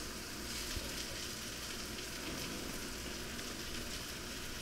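Flour-dredged alligator meat frying in a hot skillet greased with spray olive oil: a steady sizzle.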